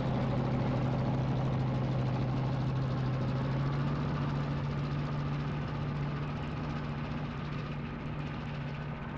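Gloster Gladiator's Bristol Mercury radial engine running with a steady low drone, slowly fading toward the end.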